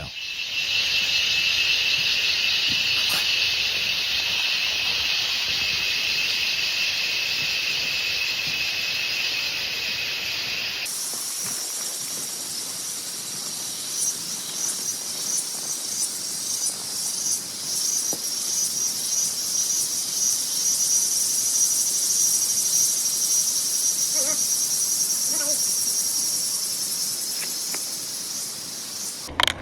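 Chorus of insects chirring in a steady high band; about eleven seconds in it cuts abruptly to a higher, rapidly pulsing chorus.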